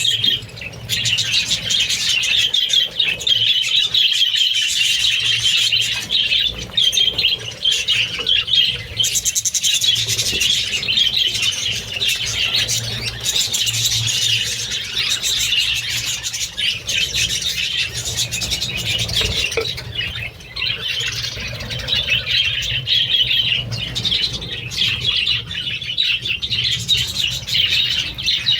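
A flock of budgerigars chattering and chirping in a dense, unbroken stream of high warbles and squawks.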